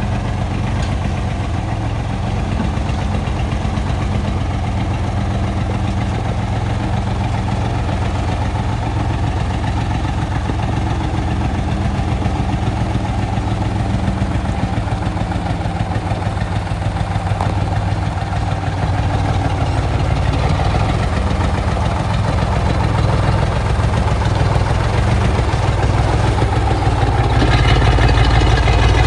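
Truck engine idling steadily, growing somewhat louder near the end.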